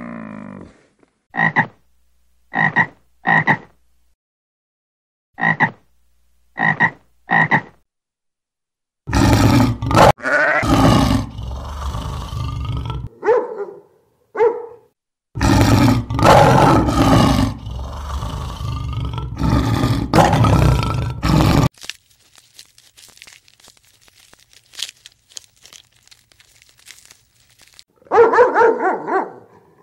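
A string of different animal calls. First come short calls in groups of three, then a run of loud, long calls, and dog barking near the end.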